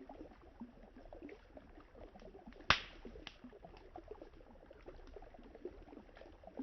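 Wood fire crackling with scattered small ticks and one loud sharp pop about two and a half seconds in, over the low babble of river water.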